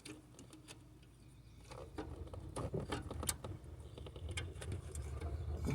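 Scattered light metallic clicks and clinks of hand tools working on a big block engine's exhaust manifold studs. A low rumble builds after about two seconds.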